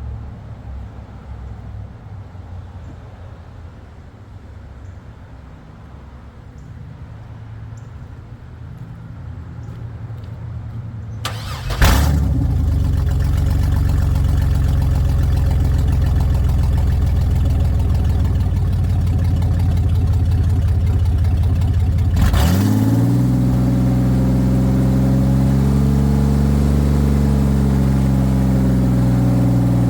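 Oldsmobile Bravada's 4.3L V6, run with no oil, no coolant and no exhaust, catching suddenly about twelve seconds in after a low rumble and running loud and steady. About ten seconds later it stumbles for a moment, then picks up and runs steady at a higher speed.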